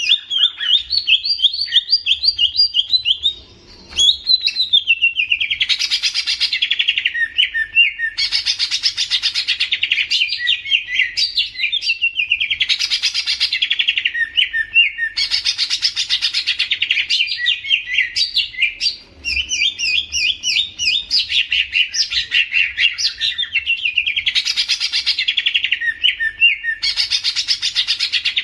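A songbird singing a continuous, rapid twittering song in loud, dense phrases that recur about every three to four seconds, with brief pauses about four seconds in and again past the middle.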